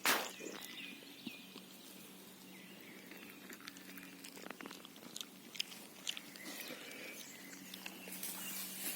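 A Samoyed's faint, soft vocal noises, with a sharp click just after the start and light scattered clicks.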